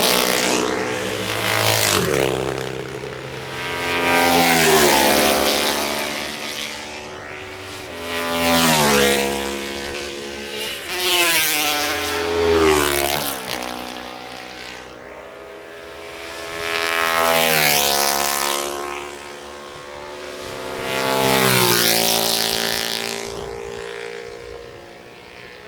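Racing motorcycles passing at speed one after another, about six times. Each engine note swells as the bike approaches, then drops in pitch and fades as it goes past.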